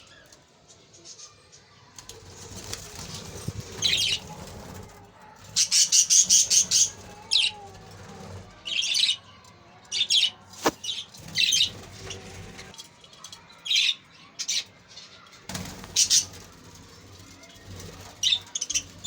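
Budgerigars in a large cage chirping in short, sharp, high-pitched bursts, one or two a second, some coming in quick clusters, with a low background rumble underneath.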